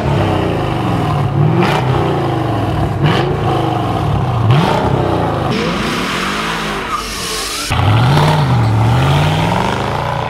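Mercedes-Benz SL55 AMG's supercharged V8 revved hard three times, the revs climbing sharply and falling away between blips. Later the car accelerates hard, the engine note rising, dipping and rising again.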